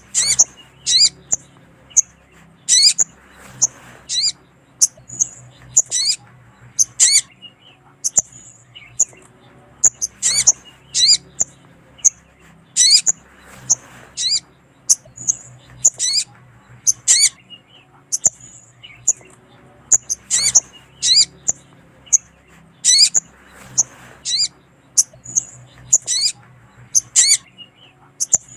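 Sogon bird calling: short, high, thin chirps that sweep downward, in quick clusters repeated about once a second. Presented as a female sogon calling to a male, used as a lure call.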